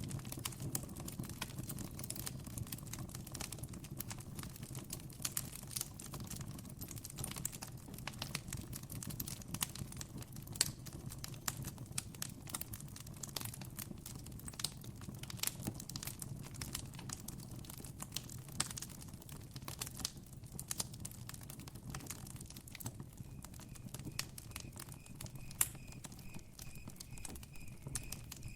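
Campfire crackling, with frequent irregular sharp pops over a low steady rumble. Near the end a cricket's faint high pulsing trill joins in.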